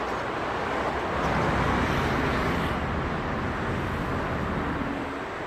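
Street traffic: a steady wash of passing road vehicles, swelling a little a second or so in as one passes closer.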